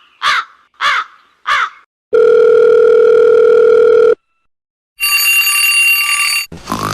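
Edited sound effects: a quick run of short crow-like caws, then a steady electronic tone like a phone dial tone for about two seconds, then a shrill high-pitched ringing tone.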